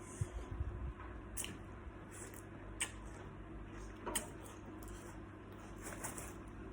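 Close-up eating sounds: a person chewing and biting salt-baked shrimp, with wet squishy mouth noises and a few sharp clicks. There are low thuds in the first second.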